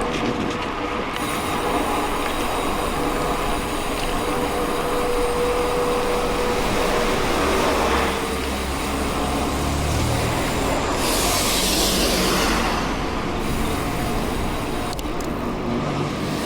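Mountain bike rolling along a dirt road: steady tyre noise on gravel and the rattle of the bike, with a louder hissing swell about eleven seconds in.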